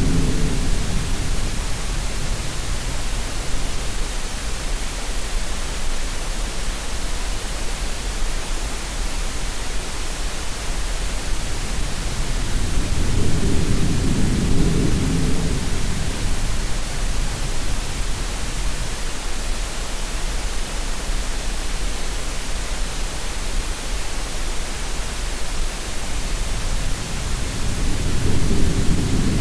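Steady green noise, an even hiss, mixed with sea sounds: a low surge of waves swells and fades about every fourteen seconds.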